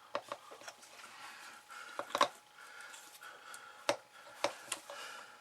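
Handling noises while glue is applied to a cardboard model: a scatter of light clicks and taps, about seven, with faint rubbing between them.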